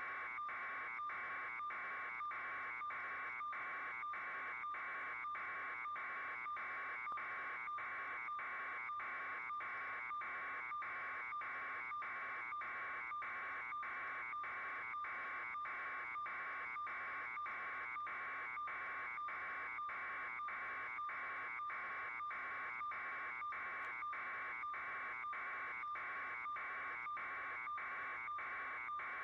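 A steady buzzing sound, broken by brief regular gaps about three times every two seconds.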